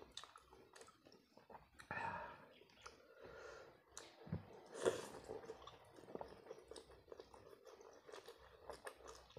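A person chewing instant pancit canton noodles close to the microphone, with many small wet mouth clicks and smacks; the loudest burst comes about five seconds in as a forkful of noodles goes into the mouth.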